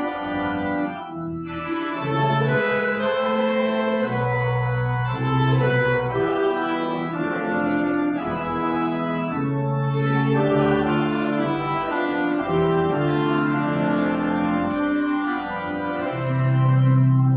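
Organ playing sustained chords, with the bass notes held and changing every second or two.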